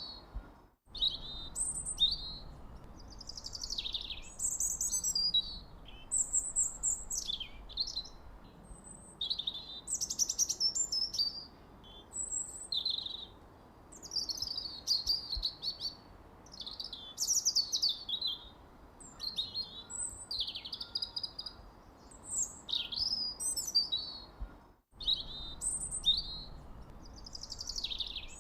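Songbirds chirping and twittering: many short, rapid high calls and trills overlapping one another, with two brief cuts to silence, about a second in and near the end.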